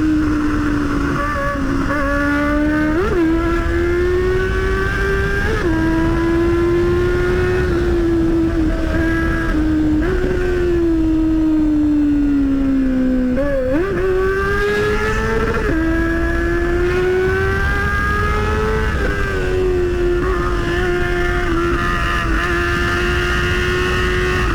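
Motorcycle engine running at a steady cruising pace, with heavy wind rumble on the microphone. The revs sag slowly around the middle, then pick up and climb again.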